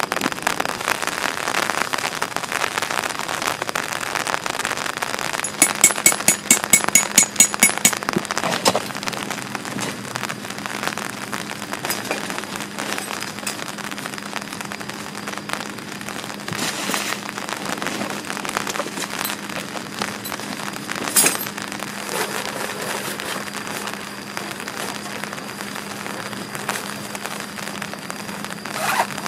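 Steady rain falling. A quick, even run of about a dozen sharp clicks comes some six seconds in, and a single sharp crack near the middle.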